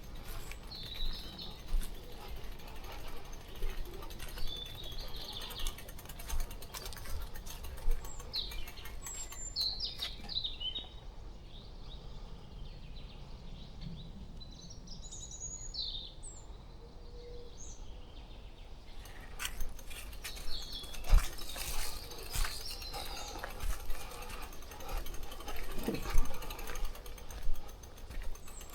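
Small birds chirping in short, scattered high calls over a steady low rumble, with sharp clicks and knocks coming more often in the last third.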